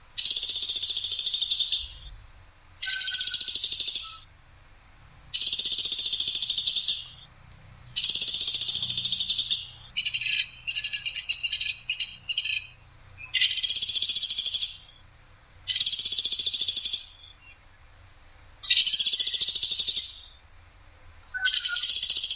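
Platuk sampit (a small woodpecker) calling: harsh, sharp rattling trills, each one to two seconds long, repeated about nine times with short pauses. One call near the middle breaks into a stuttering series.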